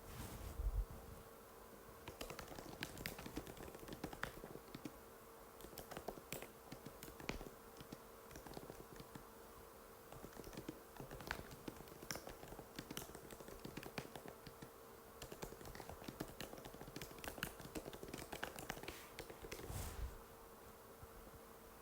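Typing on an Apple MacBook butterfly keyboard: a continuous, irregular run of quick, light key clicks over a faint steady hum. There is a low thump just after the start and another near the end.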